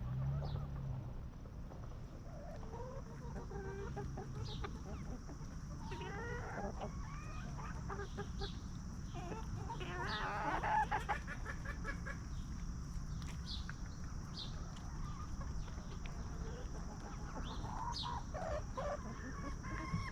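Free-range hens clucking on and off, with a louder run of calls about ten seconds in.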